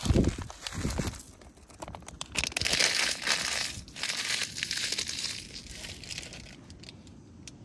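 Plastic food packet crinkling and rustling as it is handled, the crackling densest from about two seconds in to about six seconds in.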